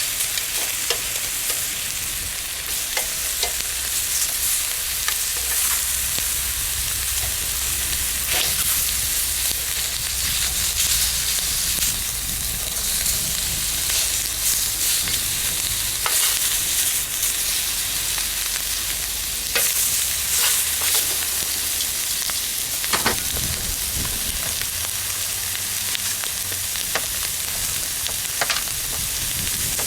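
Bacon and eggs sizzling in a pan over a campfire, a steady frying hiss with scattered sharp pops and crackles.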